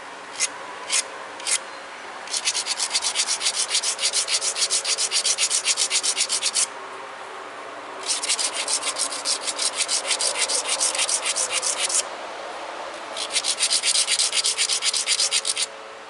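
Tiger chert point being ground back and forth against an abrader: a few single strokes, then three runs of fast, even scraping strokes with short pauses between. It is the aggressive grinding of the base and ears that dulls the edge so it will bear the pressure of notching.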